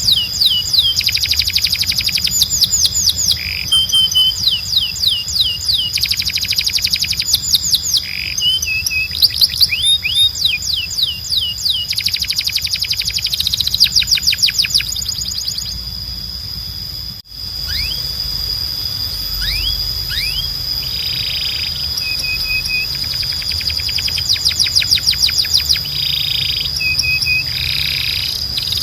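Timbrado canary singing: phrases of fast trills made of rapidly repeated downward-sweeping notes, broken by short held notes and brief pauses. The song cuts out for a moment a little past halfway.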